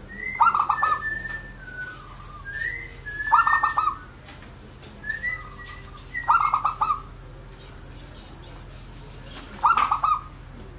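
Zebra dove (perkutut) cooing: four loud bursts of quick staccato coos, about three seconds apart. Thinner, higher whistled notes come between the first three bursts.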